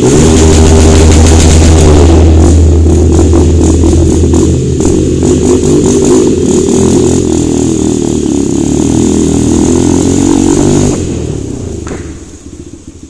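Hero Xtreme 160R's single-cylinder engine running through its exhaust, its pitch rising and falling with the throttle. About eleven seconds in the sound drops away and fades out.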